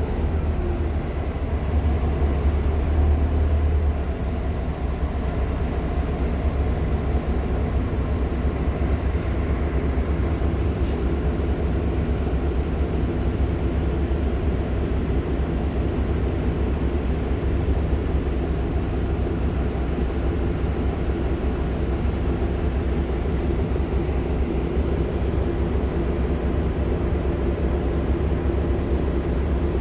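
Nova LFS articulated hybrid bus with a Cummins ISL9 diesel and Allison H50 EP hybrid drive, running steadily under way, heard on board as a steady low drivetrain hum with several steady engine tones. A faint, high, wavering whistle sounds over it for the first few seconds.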